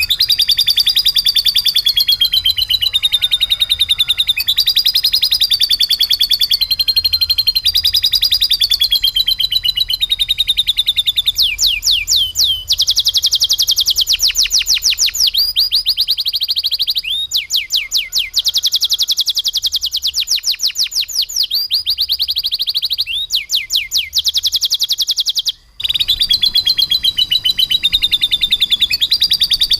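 Domestic canary singing without pause: long rolls of very fast repeated high notes, changing pattern every few seconds, in a song stocked with phrases copied from lovebirds. The song drops out for a split second a little before the end.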